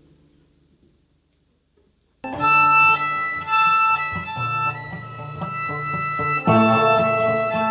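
A sound fades to near silence, then about two seconds in, violin and acoustic guitar break in abruptly, playing dense held notes over a low line. The texture shifts suddenly again near the end.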